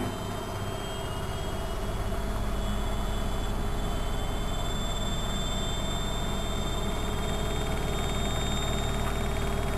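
Studio WM26AAA washing machine running: a steady low motor hum with a high whine that rises slightly in pitch over the first few seconds, then holds.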